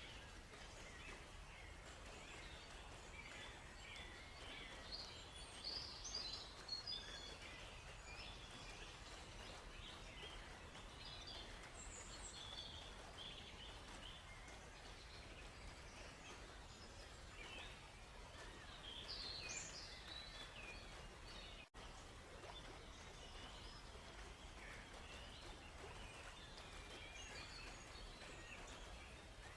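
Faint forest ambience: many small birds chirping and calling in short, scattered phrases over a steady, even background rush of flowing water. The sound cuts out for a split second about two-thirds of the way through.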